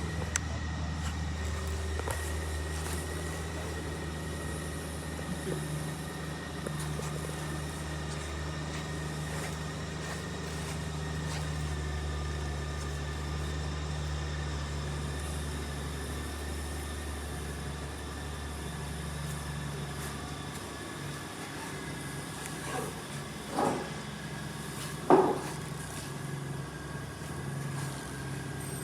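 BMW R1200R boxer-twin engine idling with a steady low drone. Its lowest note drops away about two-thirds through. Two short, louder sounds come about a second and a half apart near the end.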